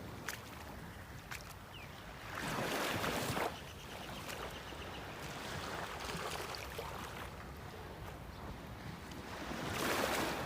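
Sea water and wind: a steady rushing wash with two louder surges, one about two seconds in and one near the end.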